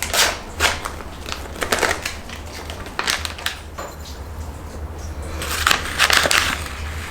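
Irregular crunching and crushing in cooking preparation, a few sharp crunches spaced a second or two apart, then a denser, louder cluster near the end.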